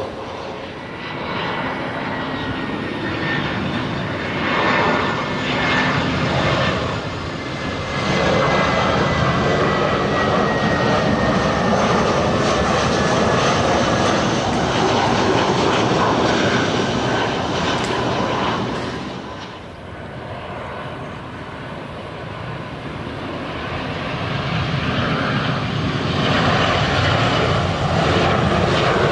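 Jet airliner engines running loud and steady, with a faint whine slowly falling in pitch over the first half; the noise dips about twenty seconds in and builds up again near the end.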